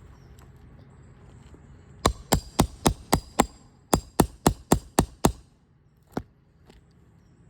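Roofing hammer striking metal in two quick runs of about six blows each, around four blows a second, with a short pause between runs and one lighter knock after.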